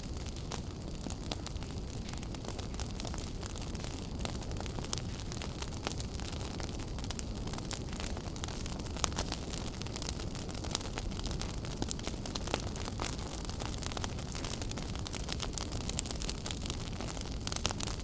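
Wood fire burning in a fireplace: a steady low rumble of flames with many small crackles and snaps, and a few louder pops scattered through.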